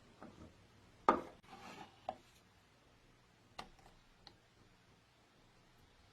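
A few light knocks and clatters of hard parts being handled, probably the wooden and metal parts of a vintage coffee grinder under restoration. The loudest knock comes about a second in, followed by a short scraping rub; lighter knocks follow at intervals, then it goes quiet.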